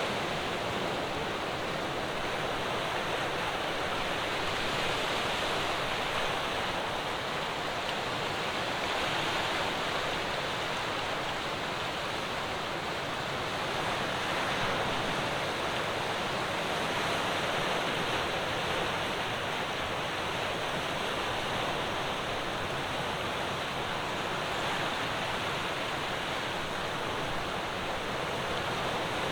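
Ocean waves breaking on a rocky shore: a steady wash of surf that swells and eases slowly, with no single crash standing out.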